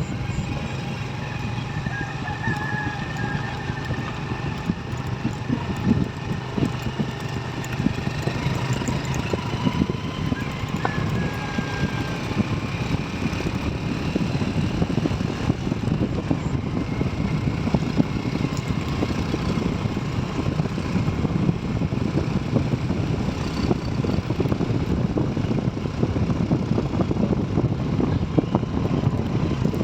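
Motorcycle engine running steadily under way, with road and wind noise as heard by a passenger riding on it.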